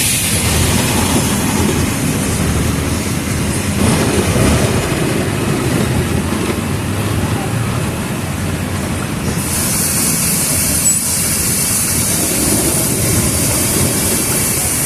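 Mercedes-Benz OF 1722M city bus diesel engine running under way, with a continuous low rumble and body rattle. A steady high hiss joins about two-thirds of the way through.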